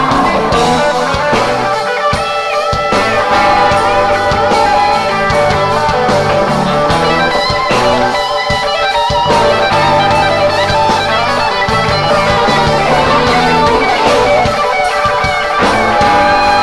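Live rock band playing an instrumental passage: an electric guitar lead with bent notes over bass and drums.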